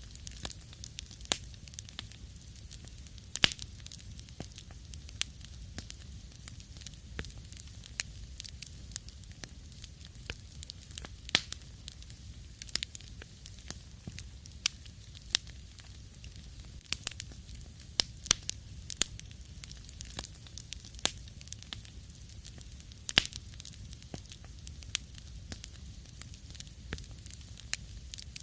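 Wood fire crackling in a fireplace: irregular sharp pops and snaps over a low rumble and a faint hiss.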